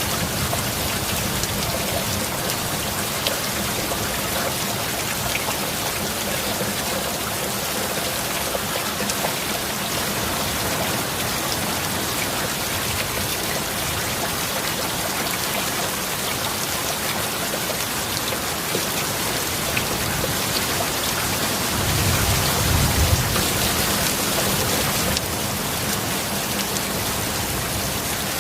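Heavy, steady rain. About two-thirds of the way through, a low rumble of thunder swells for about three seconds and then cuts off abruptly.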